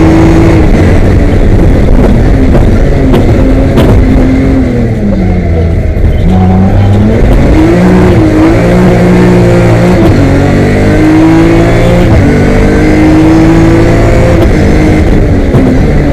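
BMW M3 rally car's engine heard from inside the cabin at full stage pace. The revs climb and drop again and again with gear changes and lifts, falling off about five seconds in before pulling up hard once more.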